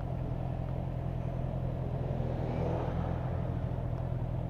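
Motorcycle engine running at a steady speed, heard from the bike, with road and wind noise; the noise swells slightly about two to three seconds in.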